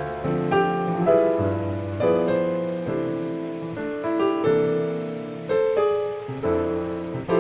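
Background piano music, slow notes and chords struck and left to ring.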